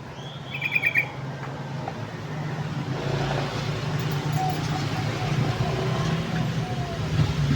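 A short burst of rapid chattering bird notes about half a second in, then a motor vehicle's engine drone that grows steadily louder as it approaches.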